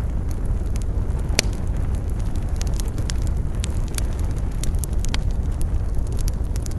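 Wood campfire crackling and popping, many small sharp snaps and one louder pop about a second and a half in, over a steady low rumble of wind.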